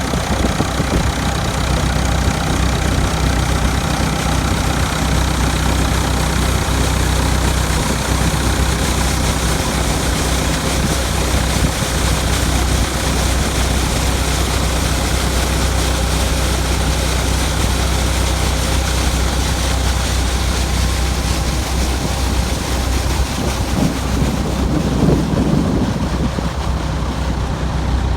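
Massey Ferguson tractor engine running at a steady speed.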